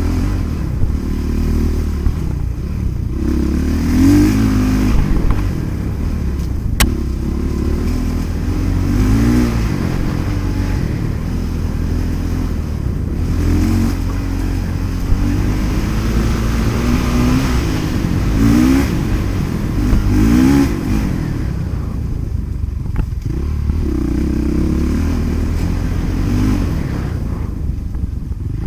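Motocross motorcycle engines running and revving, their pitch climbing and dropping again and again over a steady deep rumble.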